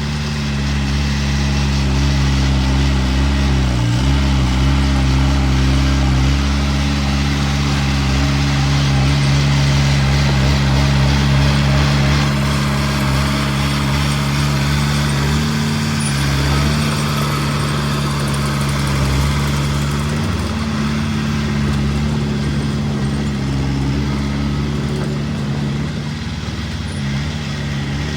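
Diesel engine of heavy earthmoving machinery running steadily, with a few brief dips in engine speed.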